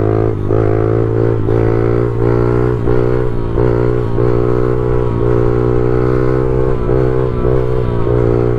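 Pit bike engine running at steady high revs, its pitch dipping slightly about twice a second.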